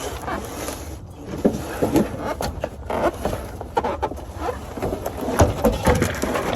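Irregular knocks and clicks of hand tools and metal parts being handled during transmission removal.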